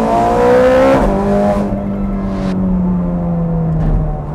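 Straight-piped, naturally aspirated V8 of a Ferrari 430 Scuderia, heard from inside the cabin, revving up hard under acceleration. About a second in the note drops, then sinks slowly as the car carries on.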